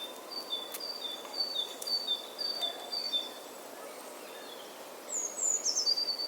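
A bird calling over a faint hiss: a run of short, high whistled notes at two alternating pitches, about two a second, then a few quick falling chirps near the end.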